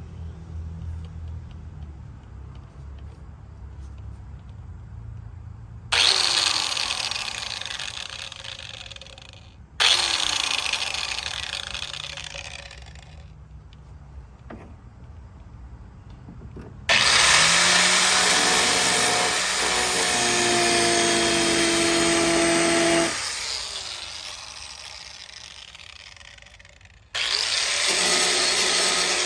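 A handheld power cutting tool cutting into the truck's sheet-metal body panel in four runs. Each run starts abruptly, and after each of the first three the tool winds down with a falling pitch; the longest run lasts about six seconds and the last is still going near the end.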